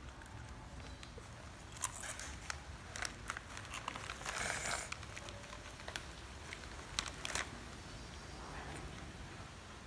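Plastic snack packet crinkling, with scattered sharp clicks and crackles and a longer rustle about four and a half seconds in.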